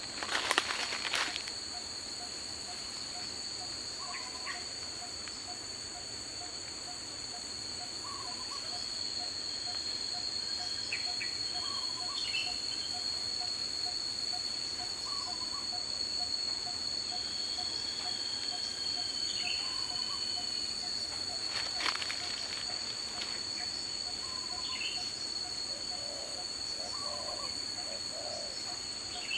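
Daytime tropical forest ambience: insects keep up a steady, high-pitched drone, with a faint, even ticking about twice a second and scattered short bird calls. Brief rustling noises come right at the start and again about two-thirds of the way through.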